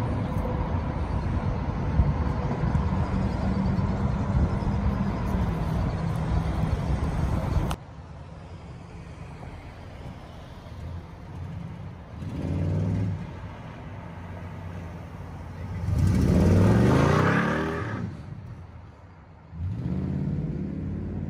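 1996 Chevrolet Impala SS LT1 V8 engines running: a steady idle at first, then after a cut a car drives past briefly, followed by a louder pass with a rising engine note as it accelerates. Steady engine sound comes back near the end.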